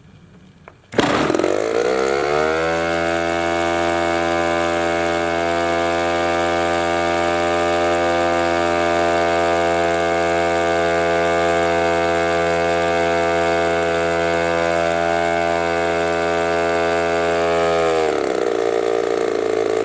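RCGF 20cc two-stroke gasoline engine starting up about a second in, its pitch rising quickly before it settles into a steady run during break-in. Near the end its pitch drops as it slows.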